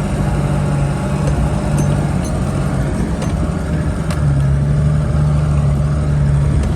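Off-road 4x4's engine running steadily under load as the driver keeps momentum up over rough ground, a little louder from about four seconds in.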